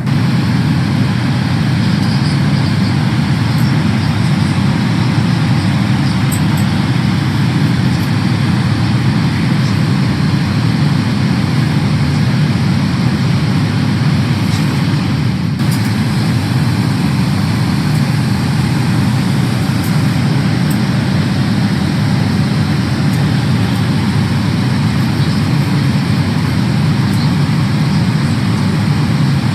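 Steady cabin noise inside a Boeing 777-300ER airliner: an even, low rush of airflow and engine noise.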